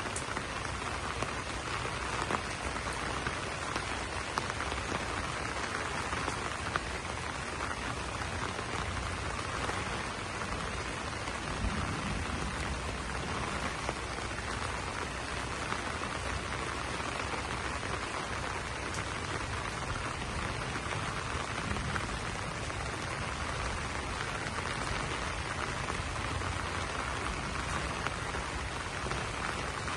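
Steady rain falling on banana leaves, an even wash of sound with occasional slightly louder drops.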